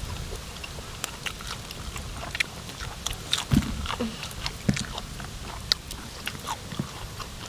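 People chewing and biting food close to the microphone: a scatter of short wet mouth clicks and smacks, with a couple of low thumps around the middle.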